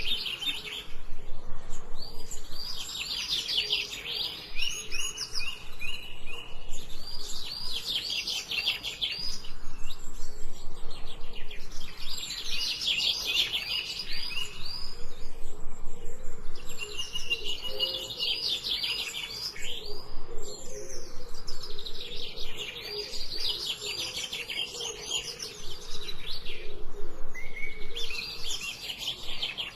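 Songbirds singing: repeated bursts of rapid, high chirping notes, a phrase of a second or two every few seconds.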